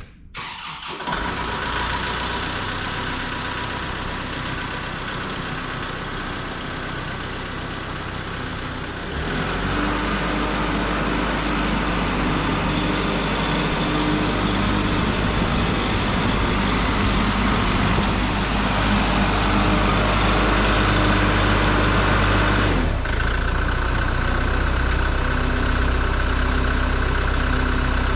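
Kubota MX6000 tractor's diesel engine running steadily. Its speed or load changes about nine seconds in, when it grows louder with a steady hum, and changes again near the end.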